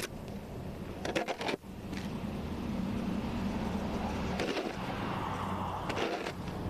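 An engine running steadily, a low drone that sets in about two seconds in, with a few brief high-pitched sounds over it.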